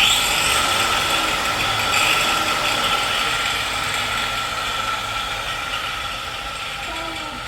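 A machine starts abruptly and runs steadily with a steady whine, slowly getting quieter.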